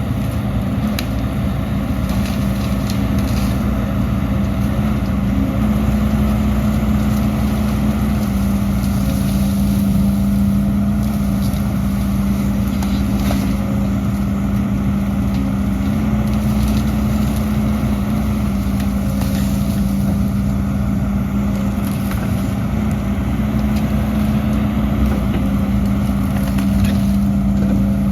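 Heavy diesel earthmoving machinery running steadily with a constant engine drone, under scattered faint knocks and scrapes.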